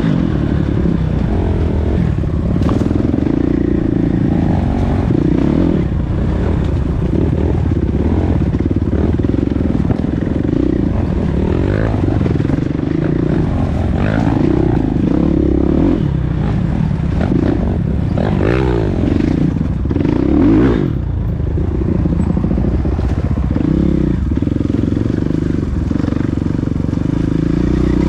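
Motocross dirt bike engines running hard, their pitch rising and falling as they rev through the gears, loudest in the middle of the stretch with quick rev changes.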